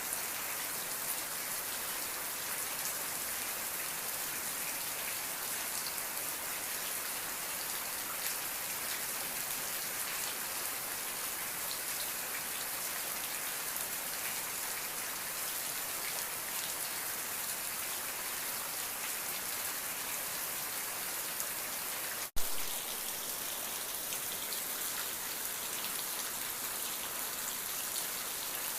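Steady, even rain with dense patter of drops. About three-quarters of the way through, the sound cuts out for an instant and a single sharp click is heard.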